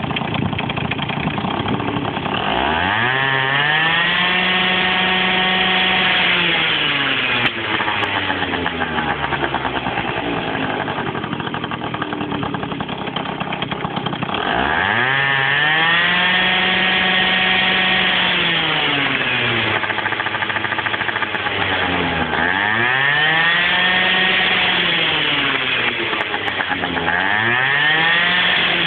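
Small two-stroke scooter engine revved up repeatedly: the pitch climbs, holds high for a few seconds and drops back toward idle, four times, the last two revs shorter.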